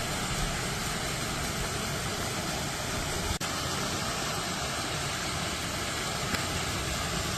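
Steady rushing noise of a waterfall, with a brief dropout about three and a half seconds in.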